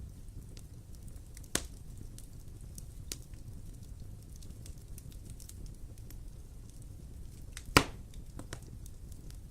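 Wood fire crackling in a fireplace: scattered sharp pops and snaps over a steady low rumble, with two louder pops, one about a second and a half in and one near the end.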